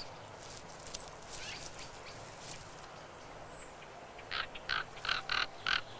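Common ravens calling: a run of about six short, harsh croaking calls, starting about four seconds in, over a faint outdoor hush. A faint, thin, high bird whistle comes a little before them.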